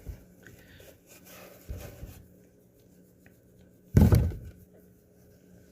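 A few soft knocks and rustles, then one loud thump about four seconds in.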